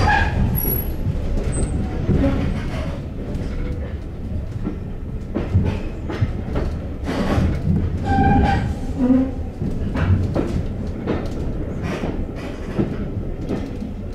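Diesel-hauled heritage passenger train running, heard from inside a carriage: a steady rumble with wheels clicking over rail joints and a few short squeaks.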